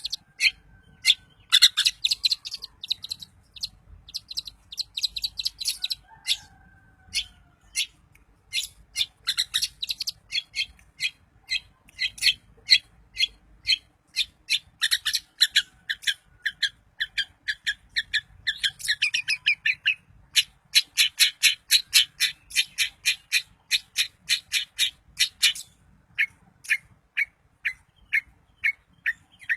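Long-tailed shrike (cendet) singing a fast, chattering song of rapid, sharp repeated notes, in long runs broken by short pauses.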